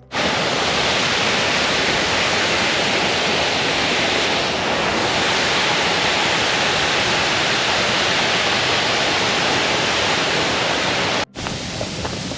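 Waterfall rushing steadily, a loud, even roar of falling water that cuts off abruptly about eleven seconds in, followed by quieter outdoor ambience.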